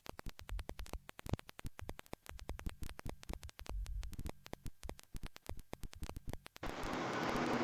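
Rapid, irregular crackling clicks, then a loud, steady hiss of static that takes over about six and a half seconds in.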